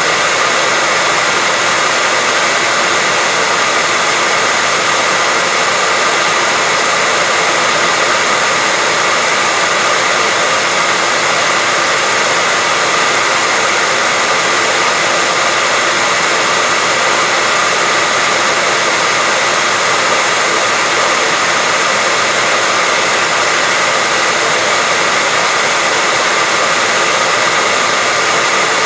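Electric hair dryer running steadily, a constant rushing of air with a steady whine in it, played as white noise to help a baby sleep.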